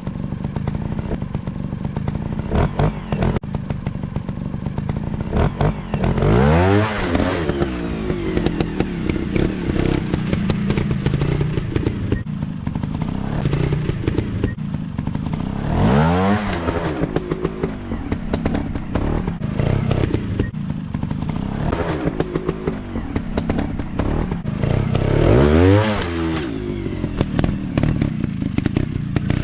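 Dirt bike engine running, its pitch rising and falling three times as it is revved under load, with clattering and knocks throughout.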